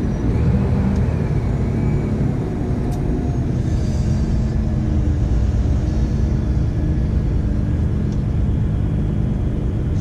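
Dump truck's diesel engine running under way, heard as a loud, steady low drone with a held hum, plus a few faint clicks and rattles.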